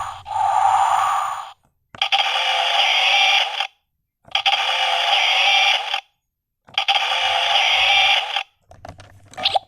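A recorded sound effect played as repeated hissing bursts, each about one and a half seconds long with short silent gaps between them. A fainter rustle with a rising tone comes near the end.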